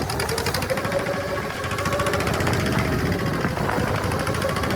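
A boat's engine running steadily, with a rapid even pulsing beat over a low rumble and a whine that wavers slightly in pitch.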